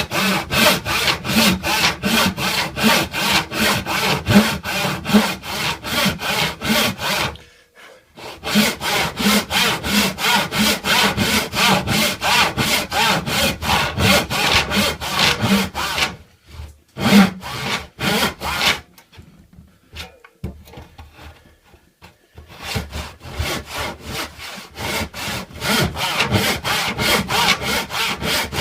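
Hand saw cutting through wood in fast, even strokes, about three a second. The sawing stops briefly about a third of the way in, and again for a few seconds past the middle, before it resumes.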